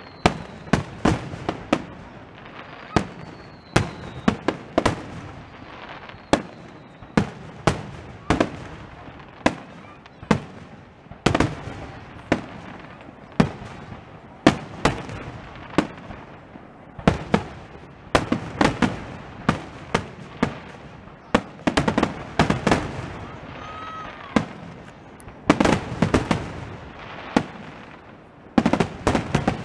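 Aerial fireworks shells bursting one after another: dozens of sharp bangs, some in quick clusters, with crackling between them. A few faint falling whistles come in the first several seconds.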